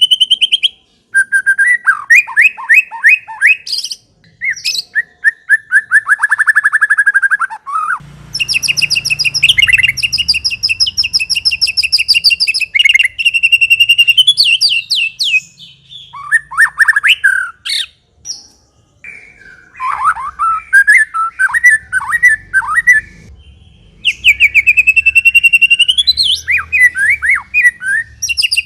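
White-rumped shama (murai batu) singing loudly in varied phrases of rapid repeated notes and trills, separated by short pauses. It includes long runs of fast chattering notes, the 'ngekek' call that bird keepers prize in an in-form, prolific singer.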